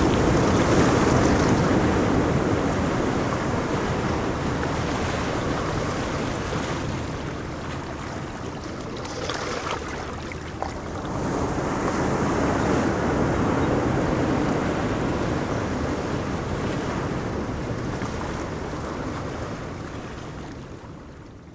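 Ocean surf: waves breaking and washing up a beach. It swells twice, near the start and again just past the middle, then fades out near the end.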